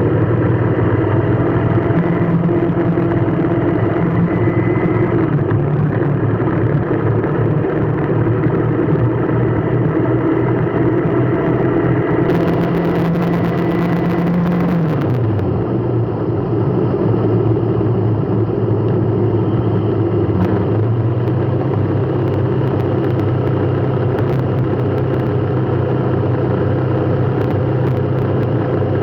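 A car's engine runs steadily under a constant haze of road noise. Its low hum drops in pitch about halfway through and rises again a few seconds later as the engine speed changes.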